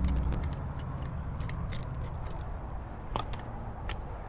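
Scattered crackles and clicks of a plastic water bottle being handled, over a steady low rumble.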